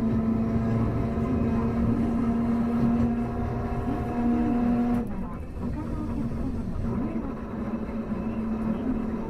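Hankai Tramway car 351 heard from inside while running: a steady low hum with higher tones over the rumble of wheels on rail. The hum and tones cut off about five seconds in, and the car runs on with only the track rumble.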